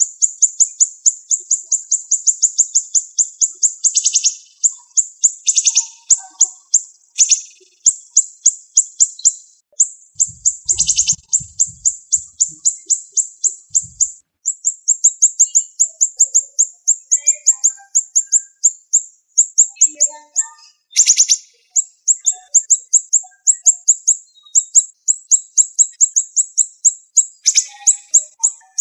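Siri-siri bird singing a fast, unbroken run of short, high-pitched notes, several a second, as a 'tembakan' rapid-fire song. Now and then a louder, harsher note stands out, about six times.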